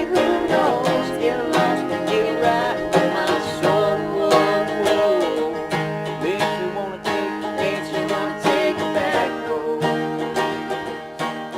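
Country band picking an instrumental passage on banjo and acoustic guitar, without singing, as the song plays out.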